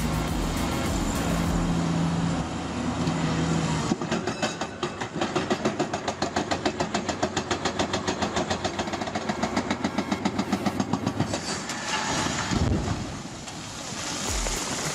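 Heavy vehicle noise: a steady low engine hum for the first few seconds, then a fast, even clatter of about five beats a second that lasts several seconds and breaks off near the end.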